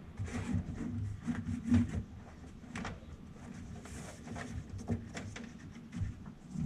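A series of irregular light knocks and clicks, loudest about two seconds in.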